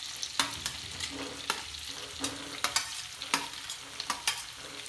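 Onions frying in oil and butter in a kadhai, sizzling steadily, while chopped tomatoes go in. Over it come a dozen or so sharp, irregular clinks of a steel spoon pushing the tomatoes off a steel plate.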